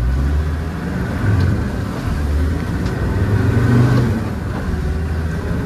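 Land Rover Defender's engine running as it is driven off-road, the engine note swelling and easing with the throttle.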